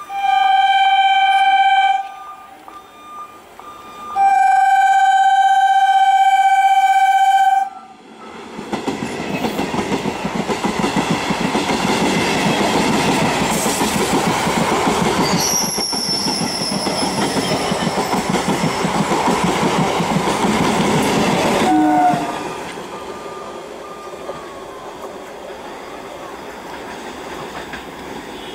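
An Indian Railways EMU local train sounds its horn twice, a short blast and then a longer one, and then passes close at speed with a loud, dense rumble and rapid clatter of wheels on the rails. A high steady whine joins in about halfway through the pass. At about 22 s the sound drops suddenly to a quieter steady rumble as a second EMU approaches.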